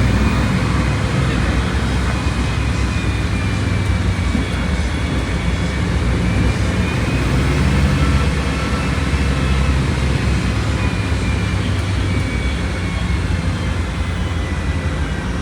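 Volkswagen Volksbus 17.230 Euro 6 bus engine running under way, a steady low drone with a faint high whine that rises and falls in pitch twice.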